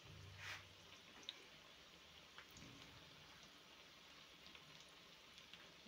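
Faint sizzling of minced chicken and vegetable balls frying in hot oil, with scattered small pops and ticks.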